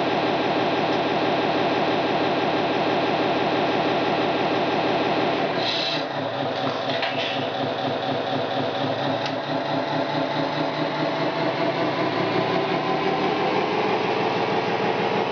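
Small electric motor of a radio-controlled Tamiya Scania model truck with a hook-lift running with a steady whine. About six seconds in, a click comes and the pitch pattern changes as it keeps running.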